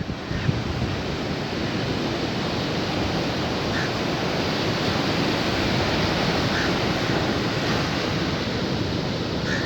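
Sea surf washing ashore: a steady rush of waves that swells a little in the middle, with a few faint short high sounds over it.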